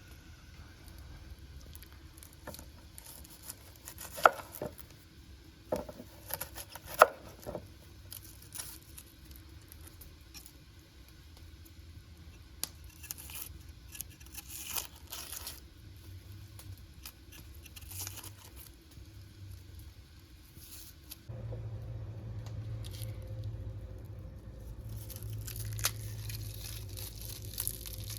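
Scattered sharp knocks and clicks with rustling and crinkling, as of things being handled. About 21 seconds in, a steady low hum starts and runs on under the rustling.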